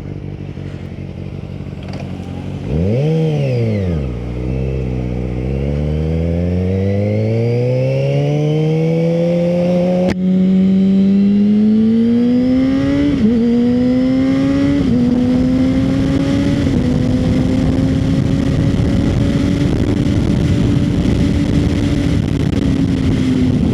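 Kawasaki ZX-6R inline-four with an aftermarket slip-on exhaust, under way. A quick rev blip comes about three seconds in, then a long pull with the engine note climbing steadily. Two quick upshifts follow in the middle, and then the engine holds a steady cruising note that eases slightly near the end.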